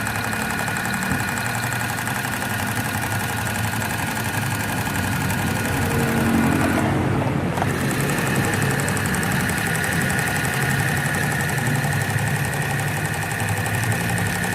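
Portable sewing machine's small electric motor running steadily with a constant whine, back at normal speed after its armature was cleaned and its carbon brushes replaced.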